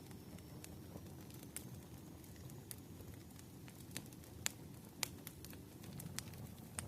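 Crackling fire ambience: scattered sharp pops and snaps, the loudest about four and a half and five seconds in, over a soft, steady low rumble.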